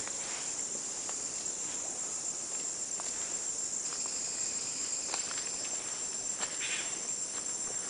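A dense chorus of rainforest insects droning steadily at a high pitch, with a few faint scattered clicks.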